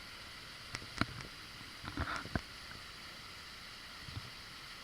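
Steady rush of a waterfall, with a few sharp clicks and knocks about one second in and again about two seconds in.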